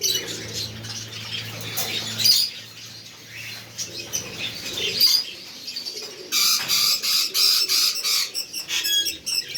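Ring-eye lovebirds chirping with wing flutters, breaking into a dense run of rapid, shrill chattering calls about six seconds in.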